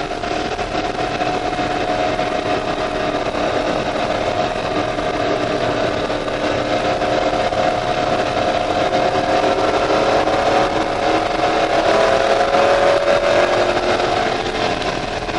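C5 Corvette Z06's LS6 V8 heard from inside the cabin, running hard under load on track, its pitch wavering as the car goes through the corners, with tyre and wind noise. It grows louder about twelve seconds in and eases off near the end.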